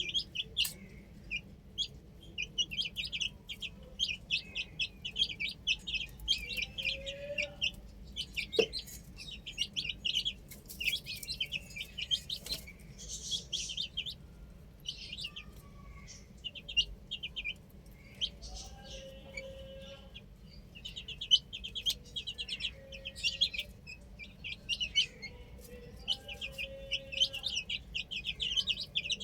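Many chicks peeping in a rapid, continuous chorus of short high calls, with a few lower calls mixed in.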